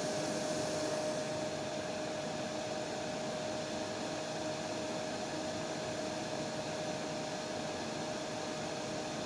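Hair dryer running steadily: an even rushing hiss with a constant motor whine. The hiss softens slightly about a second in.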